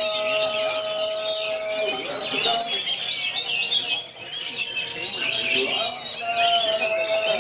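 Many caged songbirds singing at once in a dense, continuous chorus of overlapping chirps and trills. A steady humming tone runs underneath and stops about two seconds in.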